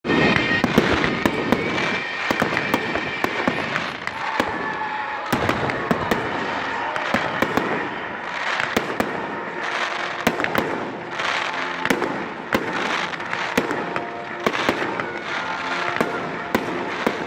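Fireworks display: a steady barrage of sharp bangs and crackling reports from exploding shells, one after another.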